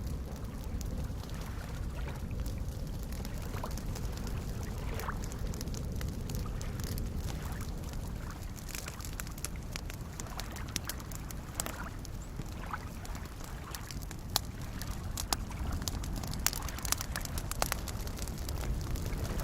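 Campfire crackling, with short sharp pops and snaps, over a steady low wash of soft lake waves lapping. The pops come more often in the second half.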